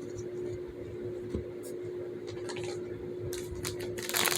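Fidget toys being handled: scattered light clicks and a louder crinkly rustle near the end, over a steady faint hum.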